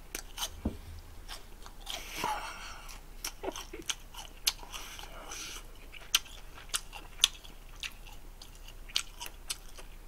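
A person chewing a crispy deep-fried gimmari, a seaweed roll filled with Buldak spicy stir-fried noodles, with irregular sharp crunches through the chewing.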